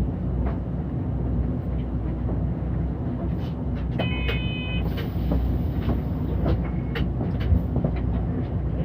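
Interior running noise of a city bus under way: a steady low engine and road rumble with scattered rattles and clicks. About four seconds in, a short electronic chime sounds for under a second, followed straight after by a brief high hiss.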